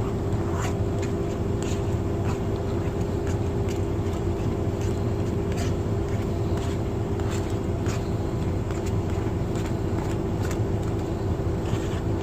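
Steady hum of an idling truck engine heard inside the cab, with scattered light clicks and scrapes of pulled pork being scraped back into a cooker pot.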